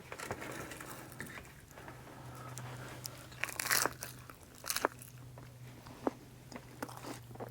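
A person biting into and chewing a crispy pan-fried cheese-and-vegetable quesadilla, with a few crisp crunches that are loudest about three and a half to five seconds in.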